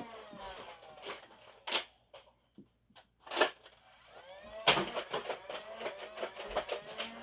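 A few sharp knocks and clicks: three louder ones, about a second and a half apart, with fainter ticking and shuffling around them.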